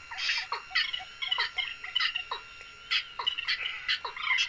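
Birds calling over and over: short chirps and calls, several a second, with brief falling notes among them.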